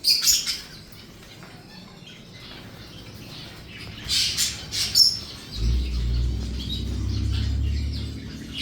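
Parrots giving short, high-pitched squawks and chirps: a burst right at the start and a few more about four to five seconds in. A steady low rumble sets in about halfway through.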